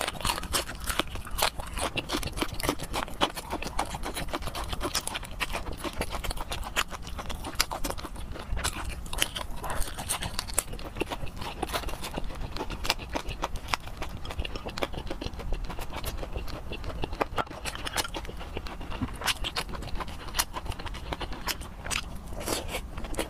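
Close-miked wet chewing and lip-smacking of soft braised meat, a dense, irregular run of sticky mouth clicks and smacks.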